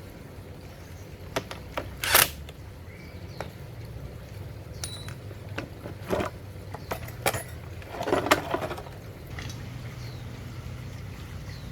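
Scattered clicks, clinks and knocks of hand tools and metal chainsaw parts being handled, with a sharp clack about two seconds in and a short rattle about eight seconds in, over a low steady hum.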